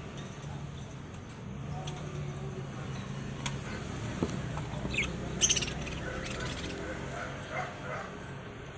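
Small pet parrots giving a few short, sharp chirps and squawks, the loudest about five and a half seconds in, over a steady low hum.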